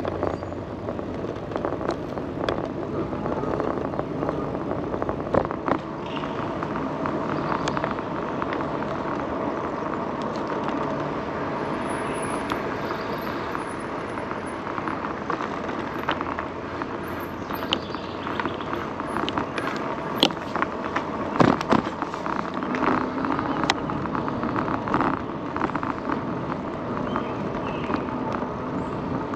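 An electric bike being ridden along a trail gives a steady rolling noise, with scattered sharp clicks throughout and a cluster of louder ones a little past the middle.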